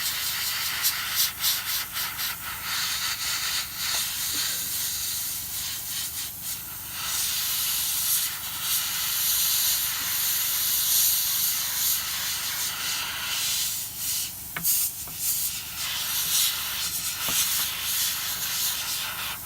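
Airbrush spraying paint: a hiss of air that swells and eases in short spurts.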